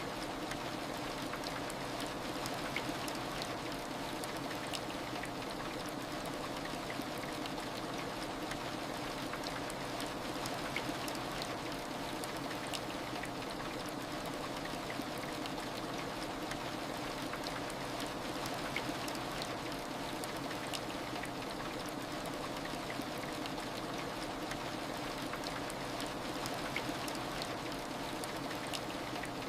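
Steady heavy rain: an even hiss with scattered drop ticks.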